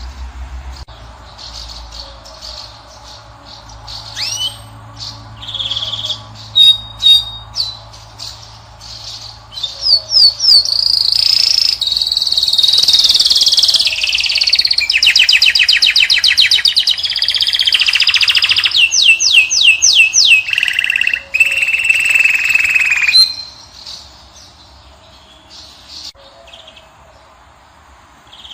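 European goldfinch and canary song. Scattered chirps and calls give way, about a third of the way in, to loud, continuous song with rapid trilled rolls. This breaks off suddenly about two-thirds of the way through, leaving only a few faint calls.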